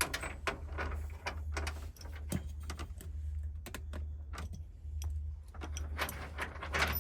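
Irregular small clicks and taps of metal parts being handled, from hand work on a van's side-door lock hardware, over a steady low hum.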